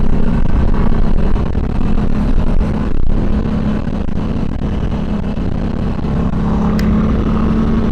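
Harley-Davidson Sportster Seventy-Two's air-cooled 1200 cc V-twin running steadily while riding on the road, mixed with a continuous rushing noise. There is one small click about seven seconds in.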